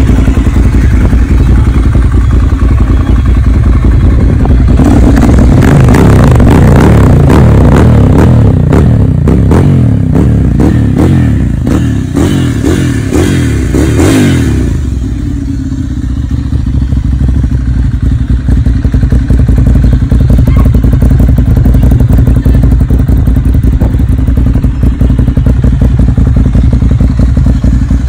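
Ducati Monster 795's air-cooled L-twin running through a Termignoni aftermarket exhaust. It idles, is revved up and down repeatedly from about five seconds in with sharp cracks among the revs, and drops back to a steady idle about halfway through.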